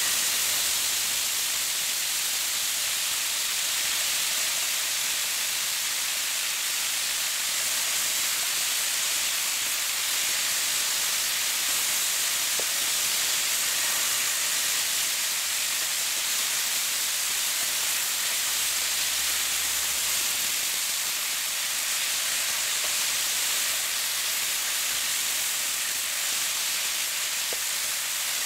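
Sliced potatoes and chopped onion frying in a pan: a steady sizzle with an occasional faint pop.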